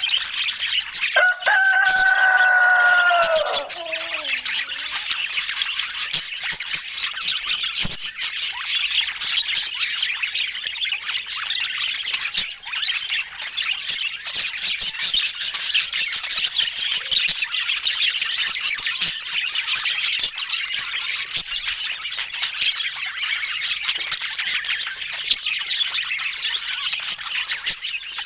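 Budgerigars chattering and warbling, a dense run of quick chirps from several birds at once. About a second in comes a louder, drawn-out call lasting some three seconds, which falls in pitch at its end.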